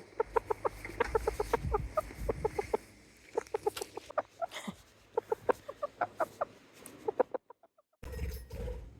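Chickens clucking in quick runs of short notes, several a second, with a brief dropout about seven and a half seconds in.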